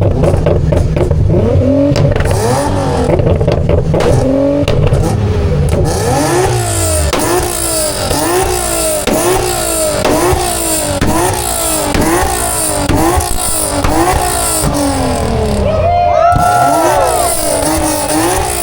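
Car engine revved again and again, its pitch climbing and dropping a bit more than once a second, over a heavy low rumble in the first few seconds.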